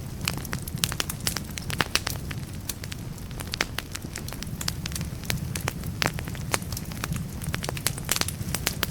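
Wood fire in a fireplace burning, with frequent sharp, irregular crackles and pops over a steady low rumble of the flames.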